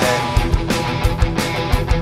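Punk rock band playing live: drums and electric guitar, with the singer coming in near the end.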